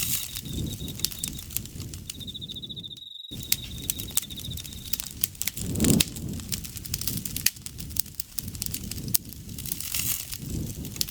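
Campfire crackling and popping steadily over a low rush of burning wood, with one stronger flare-up about six seconds in. An insect trills in a pulsed high note through the first half. The sound cuts out completely for a moment about three seconds in.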